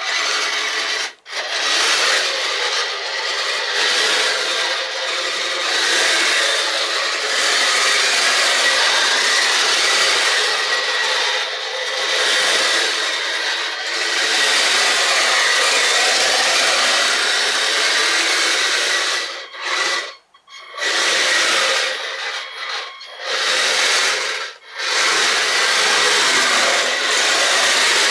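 Kyosho Blizzard FR radio-controlled snow vehicle running on its crawler tracks: a steady rasping, grinding noise from the tracks and drivetrain, with a faint steady whine. It stops briefly about a second in and several times in the second half.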